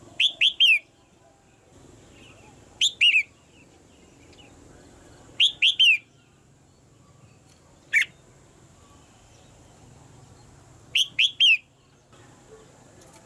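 Red-whiskered bulbul calling: short bursts of two or three quick, clear, downslurred notes, repeated about every two and a half to three seconds, with one single note in between.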